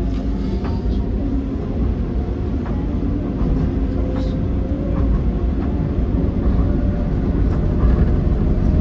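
Docklands Light Railway B92-stock train running, heard from inside the carriage: a steady low rumble of wheels and running gear with scattered clicks from the track.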